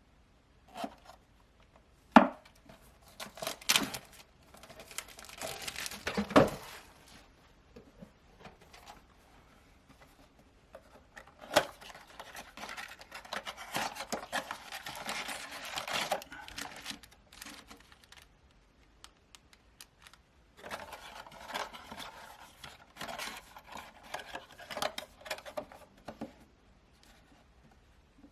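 Foil trading-card pack wrappers being torn open and crinkled by hand, in three bouts of rustling with a few sharp clicks.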